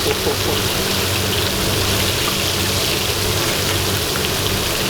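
Chapli kababs shallow-frying in fat on a griddle: a steady, dense sizzle, with a low steady hum underneath.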